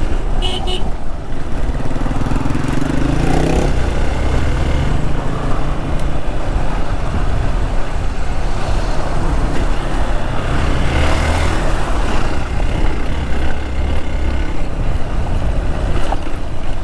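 Hero XPulse 200 single-cylinder motorcycle engine running under way, with road and wind noise; the engine pitch rises around two to three seconds in as it picks up speed. Traffic noise from trucks mixes in.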